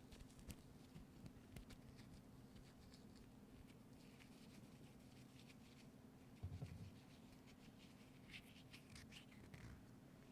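Faint scratching and light tapping on an object, with a soft low thump about six and a half seconds in and a short run of scratchy strokes near the end.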